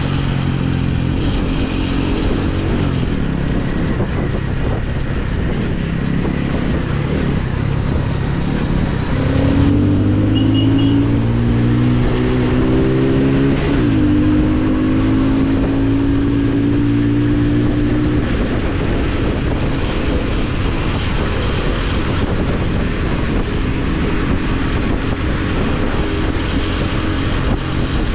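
Motorcycle engine under way, with heavy wind rush on the action camera's microphone. About ten seconds in, the engine note climbs for around four seconds, drops sharply at an upshift, then holds steady for a few seconds before fading back into the wind noise.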